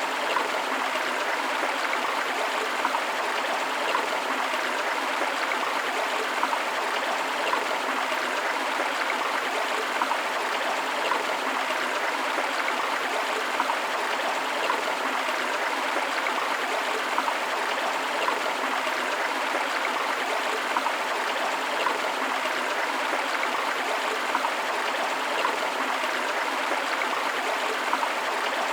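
A shallow river running over rocks: a steady rushing, splashing flow with small gurgles and splashes throughout.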